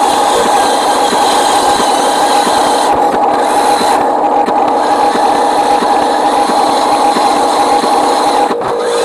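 Radio-controlled model truck running with a steady, high mechanical whine from its motor and gears, dipping briefly a few times.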